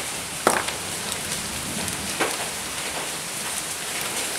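Heavy rain pouring steadily, with two sharp clicks, one about half a second in and a smaller one about two seconds in.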